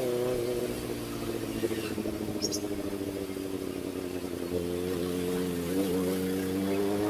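Kawasaki ZX-4RR's inline-four engine through an SC Project exhaust, running at part throttle. The engine note sags slowly for the first couple of seconds, then rises about four and a half seconds in, with a brief dip and recovery near six seconds.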